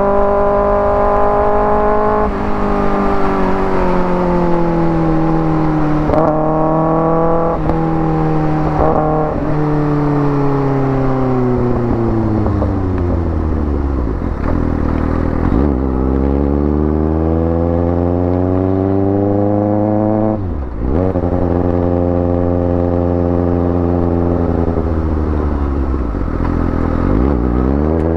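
Kawasaki ZX-6R's 636 cc inline-four through an IX Race aftermarket exhaust, ridden hard. The pitch climbs and drops sharply as it shifts up through the gears early on, falls away slowly when the throttle is closed, then rises again under acceleration with another quick shift near the middle and a fresh climb near the end.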